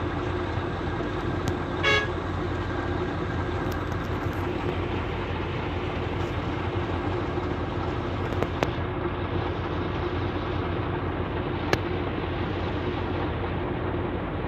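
Steady running noise of a motor vehicle with a constant low hum, and a short vehicle horn toot about two seconds in. Two sharp clicks sound later on.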